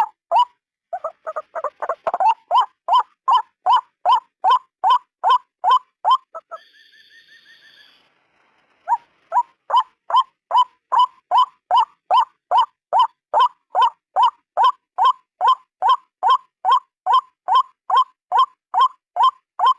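White-breasted waterhen (ruak-ruak) calling: a long run of harsh, evenly repeated notes, about two to three a second. About a third of the way in the calls stop briefly for a fainter, higher steady note and a short pause, then resume at the same pace.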